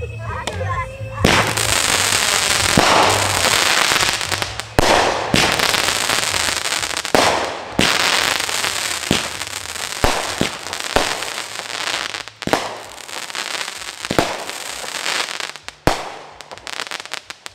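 Consumer fireworks going off in a dense barrage: continuous crackling and hissing with many sharp bangs from bursting shells and cakes. It starts suddenly about a second in and dies away near the end.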